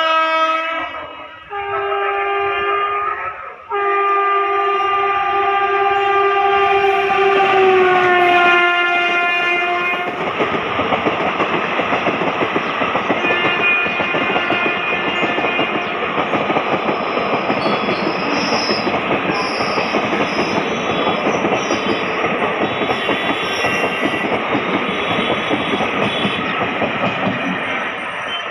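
Indian Railways electric locomotive's horn sounding in three blasts, the last long one falling in pitch as the locomotive passes. Then the continuous rattle and clatter of an express train's ICF coaches running past on the rails.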